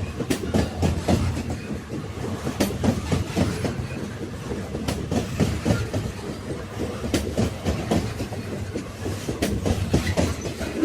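Railway wagons rolling on the rails: a steady low rumble with irregular clacks and knocks of the wheels over the track, and now and then a sharper click.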